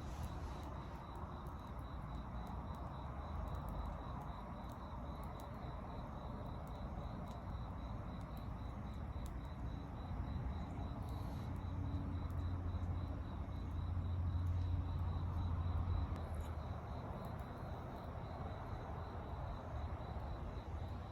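Outdoor night-style ambience of insects chirring steadily, with a low rumble that swells about halfway through and fades a few seconds later.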